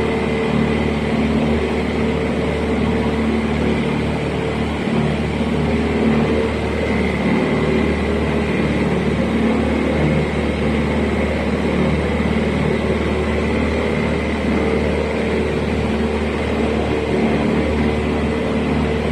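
River tour boat's engine running steadily at a constant speed, a low even drone over a continuous rushing noise.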